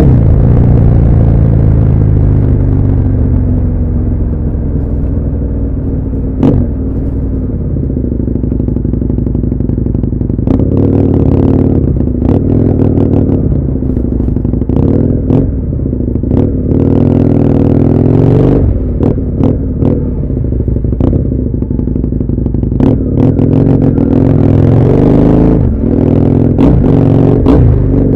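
Husqvarna Nuda 900R's parallel-twin engine heard from a helmet-mounted camera, with a steady run of engine noise throughout. Its note falls over the first few seconds as it slows. From about ten seconds in, it gives repeated short revs with sharp cracks while moving through slow traffic.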